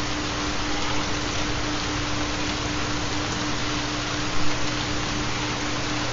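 Steady rain-sound recording with a continuous low steady tone under it: the carrier of a 4 Hz theta binaural beat. The rain swells briefly about four seconds in.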